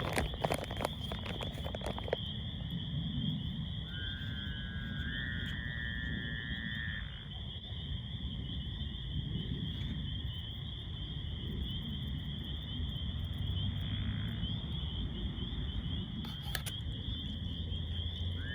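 Steady, high-pitched chorus of crickets, with a scatter of crackles in the first two seconds. An animal's short rising call with several stacked tones sounds at about four seconds and again at the end.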